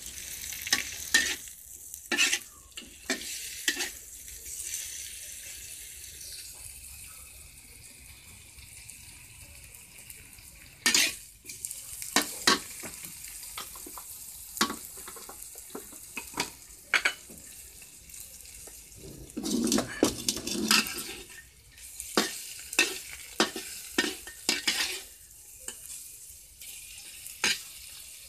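Small whole fish frying in oil in a metal wok: a steady sizzle, with a metal spatula scraping and clinking against the wok again and again as the fish is stirred and turned.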